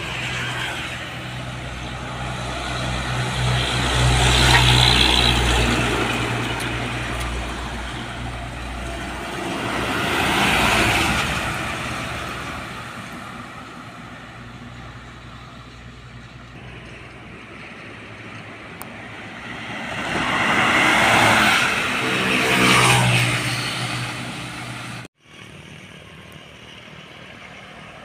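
Large trucks passing by on a road one after another, each rising and fading as it goes past. The low, steady engine note of a heavy diesel truck is strongest about four to five seconds in. The sound cuts out abruptly near the end.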